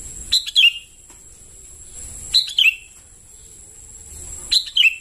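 Young sooty-headed bulbul (kutilang) calling: three short chirping calls about two seconds apart, each a quick pair of notes falling in pitch. A steady high-pitched whine runs underneath.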